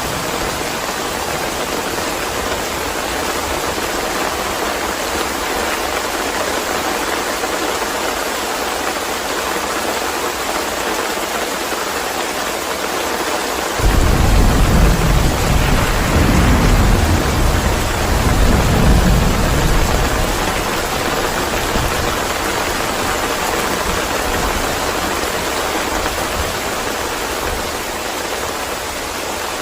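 Steady rain, with a sudden clap of thunder about fourteen seconds in that rumbles for several seconds and then fades.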